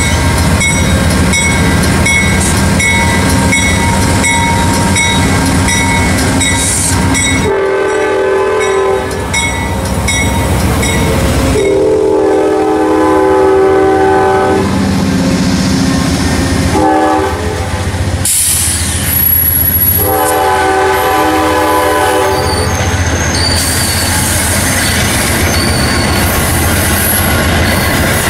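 Amtrak P42 diesel locomotive running, then its Nathan K5LA five-chime horn sounding the grade-crossing pattern: two long blasts, a short one and a final long one.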